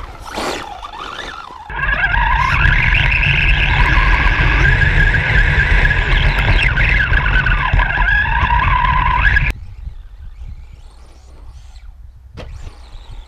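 Radio-controlled truck's motor whining at high speed over a heavy low rumble, the pitch rising and falling a little. It cuts off suddenly near the end and leaves a quieter stretch with one sharp click.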